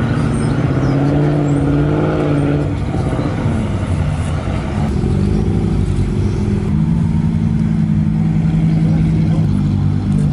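Lamborghini Centenario's V12 engine running at low speed as the car drives slowly past, its revs rising and falling, with one short rev climbing and dropping back about five seconds in.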